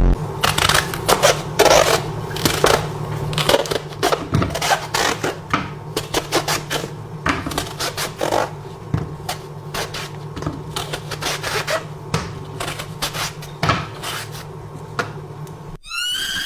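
Rapid, irregular clicks and clattering knocks over a steady low hum. It cuts off about sixteen seconds in, and a rising squeal begins right at the end.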